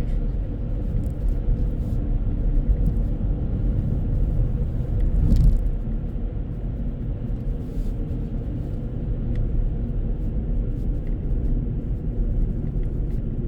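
Steady low road and engine rumble inside a moving car's cabin, swelling briefly about five seconds in.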